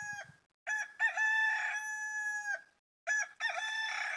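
Rooster crowing cock-a-doodle-doo in repeated long crows. One crow is ending at the start, a full crow comes about a second in, and a third begins near the end.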